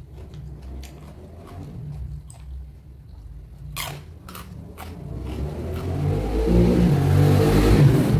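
Close-up mouth sounds of someone biting and chewing raw vegetables, with a few sharp crunches about four seconds in. Over the last couple of seconds a loud rumbling noise swells up and covers the chewing.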